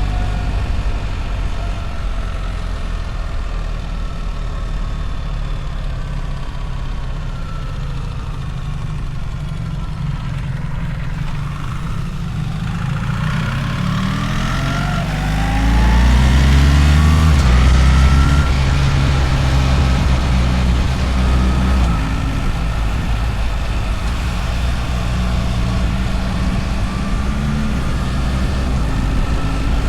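BMW R1300 GS's boxer-twin engine under way: its pitch sinks slowly as the bike slows, then climbs as it accelerates, loudest a little past the middle, before settling into a steadier run.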